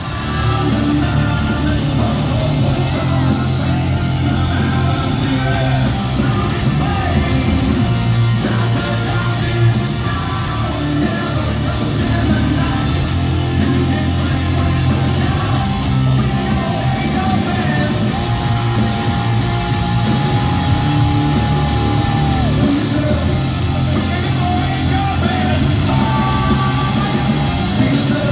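Hard rock band playing live at full volume: distorted electric guitars, bass and drums with a lead singer belting. A long held note rings out from about eighteen seconds in for four seconds.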